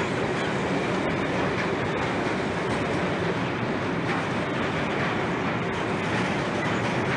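Freight train of hopper wagons rolling past, a steady rumble of wheels on the rails with no change in level.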